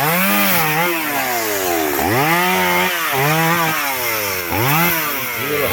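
Chainsaw cutting through a log, its engine revving up and bogging down under load about five times, the pitch climbing quickly each time and then sagging.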